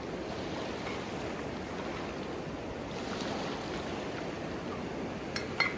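River water rushing steadily, with two or three sharp clicks near the end.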